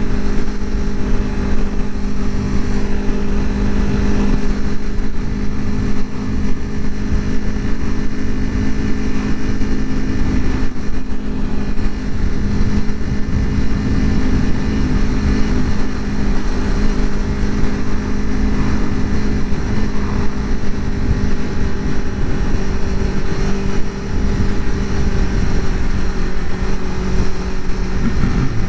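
2021 Aprilia Tuono V4 Factory's V4 engine through its stock exhaust, running at fairly steady revs while cruising, with a dense low rumble underneath.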